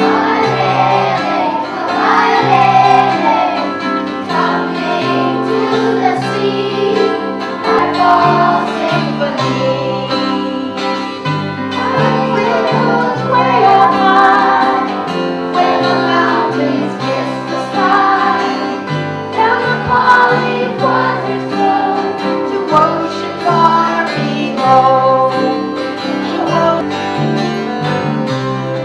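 Acoustic music with strummed guitar, a plucked bass line stepping between notes, and a wavering melody line over the top.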